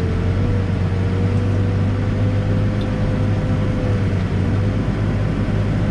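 Extendahoe backhoe's diesel engine running steadily, with a thin steady whine over the low engine hum.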